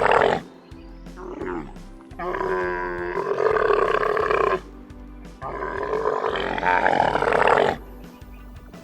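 An animal's long, loud calls, three in a row with short pauses between, each lasting about two seconds.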